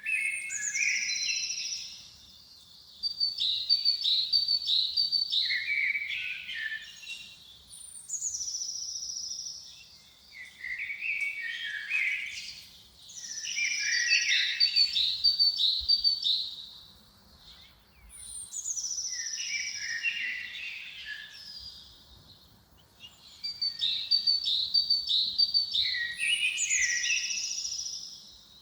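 A songbird sings the same phrase over and over, about every five seconds. Each phrase opens with a high falling note, runs through a quick series of notes and drops lower toward the end.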